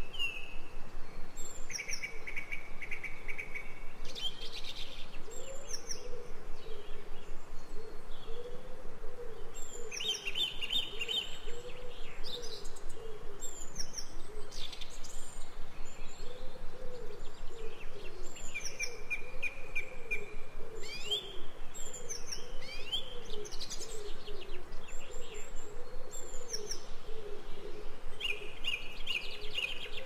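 Several songbirds singing and calling: repeated short rapid trills, chirps and quick whistled sweeps, over a low wavering hum.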